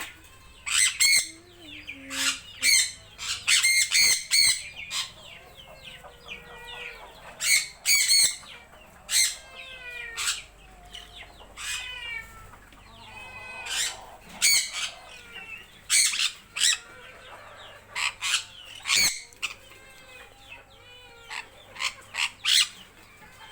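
Parrots squawking over and over in harsh, loud screeches, with fainter whistled calls between.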